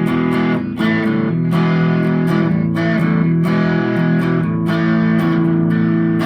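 Electric guitar played through a Vox AV15 valve amp on its crunch channel with a little gain: strummed chords ringing on, with a new strum about every half second to a second.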